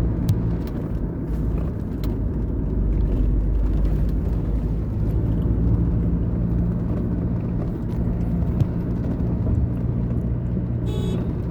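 A car's engine and tyre noise heard from inside the moving vehicle: a steady low drone, with a short high-pitched tone near the end.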